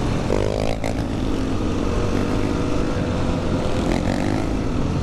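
Motorcycle engines running on the road: a short rising rev about half a second in, then steady running under riding noise.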